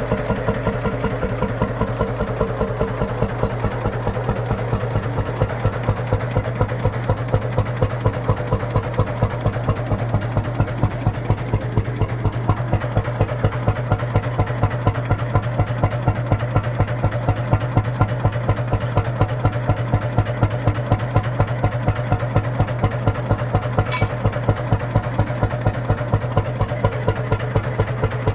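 Lanz Bulldog's single-cylinder two-stroke hot-bulb engine idling with its slow, even beat, about five a second. It is running warm and steady: the hot bulb has reached working temperature after a blowtorch preheat.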